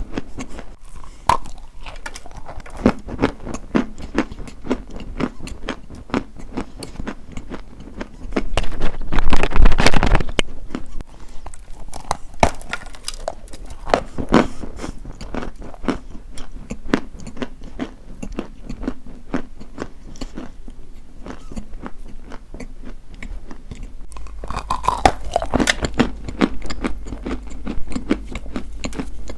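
Crunching of a brittle, crumbly material: a dense run of small crunches and crackles, louder about nine seconds in and again near the end.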